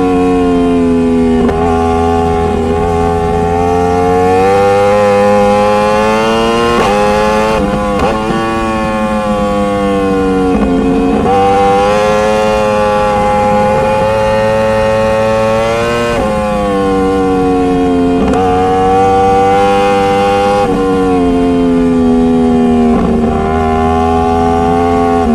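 Motorcycle engine running under way, its pitch rising and falling again and again as the rider opens and closes the throttle, with several quick drops and climbs that sound like gear changes.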